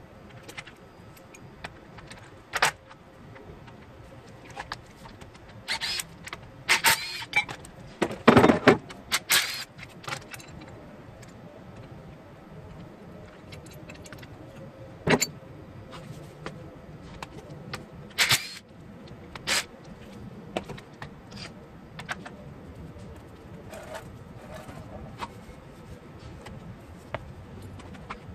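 Metal tools and engine parts clinking and clanking at irregular intervals as they are handled, with the loudest clattering rattle about eight seconds in and sharp single knocks later on.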